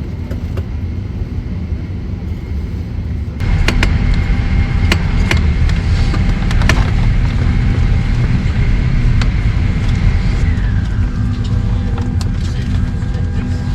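Jet airliner engines heard from inside the cabin: a steady low rumble with a high whine. It gets suddenly louder about three seconds in, and the whine drops slightly in pitch near the end, with a few light clicks.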